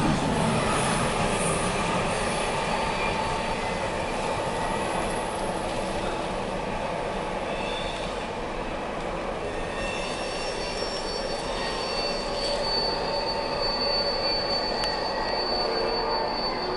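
Double-stack intermodal freight cars rolling past on steel rails, with the wheels squealing on a curve. A steady rumble runs throughout, and a long, high squeal tone is held from about ten seconds in until near the end.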